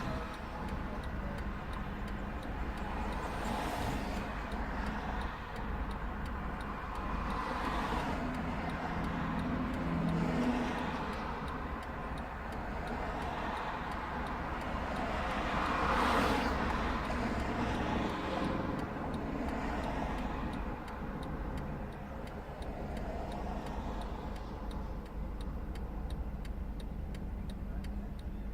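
Steady low vehicle engine rumble with traffic passing, swelling about 4, 8 and most strongly 16 seconds in, over a faint regular ticking.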